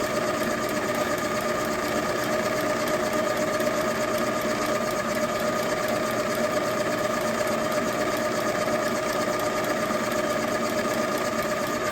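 Milling machine running steadily with a constant whine, drilling out the stripped fuel-inlet threads of a Zenith carburetor to take a Heli-Coil insert.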